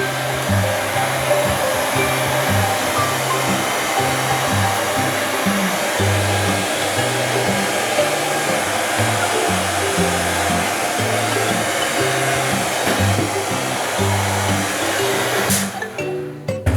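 Hair dryer blowing steadily, with background music playing over it. The dryer's noise cuts out near the end.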